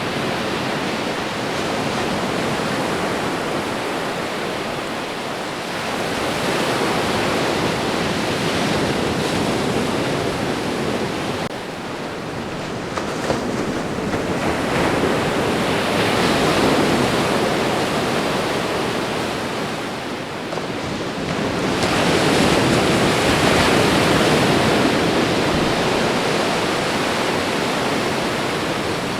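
Ocean waves washing onto a shore: a continuous surf hiss that swells up three times, roughly every eight seconds, as waves break and run up the beach.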